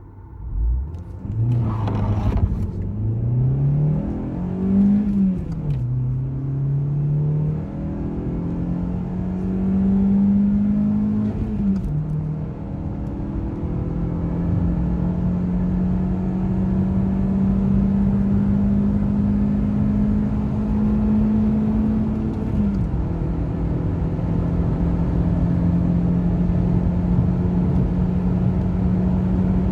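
VW Golf IV 1.6 16V four-cylinder petrol engine accelerating hard through the gears. Its pitch rises and drops sharply at three gear changes, each climb slower than the one before, then settles into a steady drone over the road rumble.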